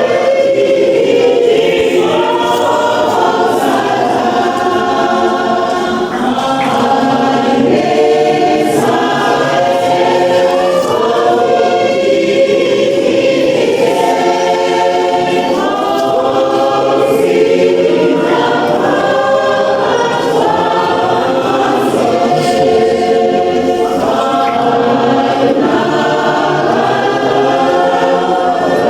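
A choir singing in harmony, many voices holding long phrases.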